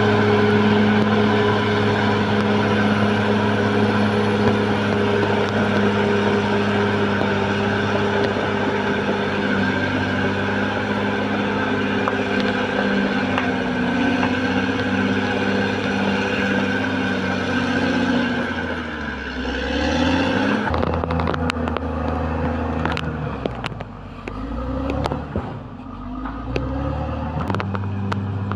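Caterpillar D6R XL bulldozer's diesel engine running steadily under load, then its pitch dropping and rising several times from about two-thirds in, with short knocks scattered through the end.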